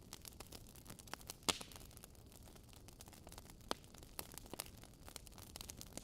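Faint crackling static with irregular clicks throughout, the loudest click about one and a half seconds in.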